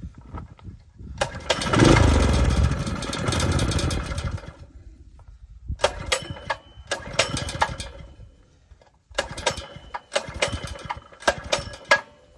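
Predator small gasoline engine being pull-started over and over without settling into a run. There is one long cranking burst about a second in, then four shorter pulls, each a quick string of chuffs. The engine is not getting fuel.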